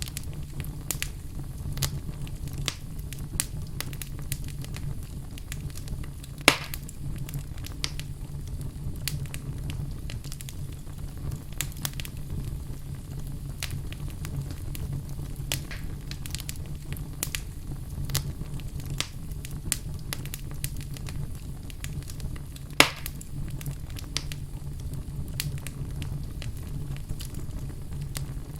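Wood fire burning in a fireplace, crackling with many small snaps over a steady low rumble of the flames. Two louder pops stand out, about a quarter of the way in and again about four-fifths through.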